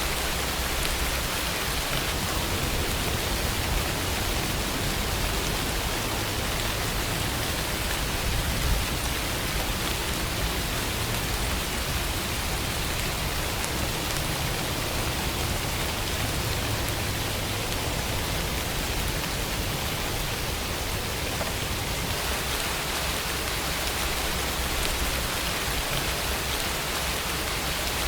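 Steady rainfall, an even patter of rain with no let-up.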